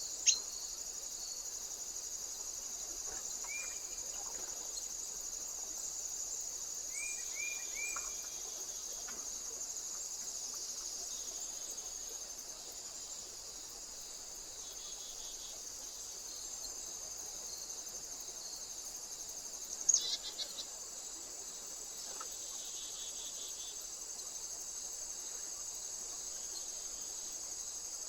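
Steady high-pitched chorus of insects, with a few short bird chirps, three in quick succession about a third of the way in, and two sharp clicks, one at the very start and one about two-thirds through.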